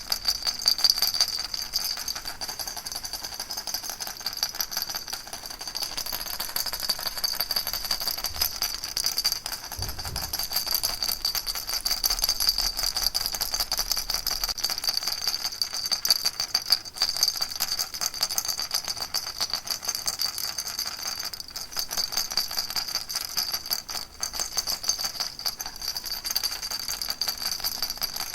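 Baby rattle shaken continuously: a dense, even stream of fine rattling with a bright jingly ring on top.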